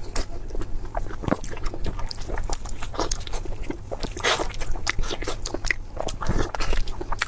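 Close-miked eating sounds: wet chewing, smacking and crunching of spicy pork belly, with irregular short clicks and smacks throughout.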